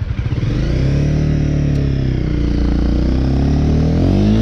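Motorcycle engine revved from a pulsing idle: it rises, eases off, then climbs again and holds high near the end. The rider is attempting a burnout that the bike won't let him do.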